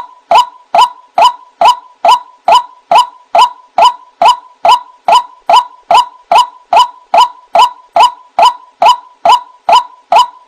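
White-breasted waterhen (ruak-ruak) calling a monotonous, evenly repeated 'kwak' note, a little over two calls a second, played as a bird-trapping lure recording.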